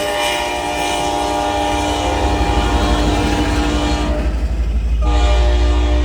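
Locomotive horn blowing a long blast that breaks off about four seconds in, then sounds again a second later. Under it a low train rumble grows louder as the train comes closer.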